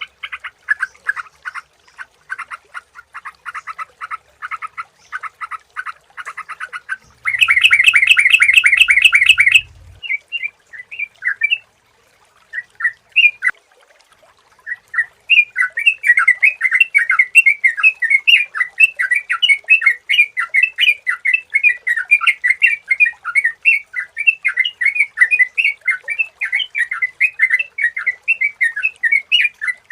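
Sooty-headed bulbuls (trucukan) calling in rapid, chattering notes. A louder, denser burst comes about seven seconds in and stops near ten seconds, there are a few scattered notes, and then continuous busy chatter resumes from about fifteen seconds.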